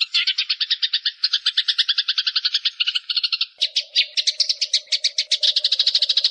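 Eurasian tree sparrows chattering in a fight: a dense, fast run of chirps, about ten a second. A little past halfway a lower, steady note joins the chatter.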